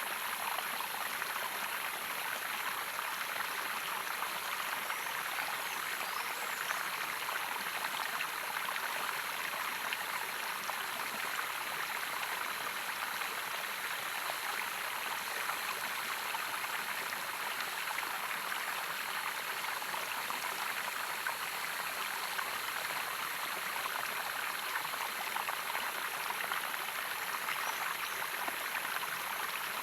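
Running water of a small waterfall or stream, splashing and rushing in a steady, unbroken flow.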